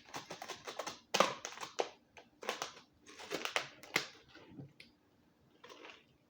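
Close-miked eating sounds from slow-cooked black silkie chicken being pulled apart and chewed: several short bursts of wet crackling in the first four seconds, then one fainter burst near the end.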